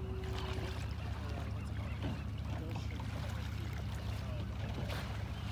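Kayak under way on the ocean: water swishing and trickling against the hull over a steady low rumble, with no single event standing out.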